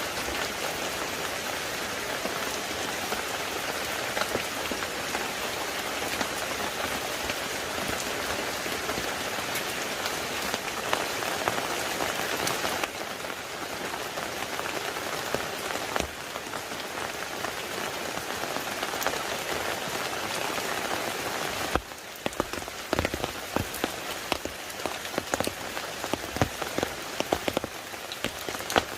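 Rain falling steadily, a dense hiss of drops pattering on surfaces. About two-thirds of the way through the hiss drops lower and separate heavier drops and drips stand out as distinct taps.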